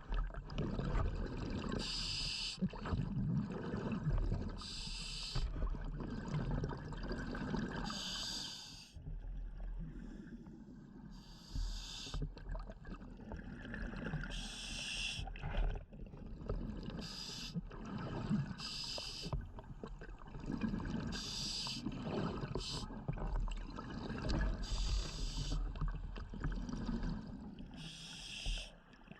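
A scuba diver breathing underwater through a regulator. Short, high-pitched hissing breaths come every two to four seconds, over a low bubbling rumble of exhaled air.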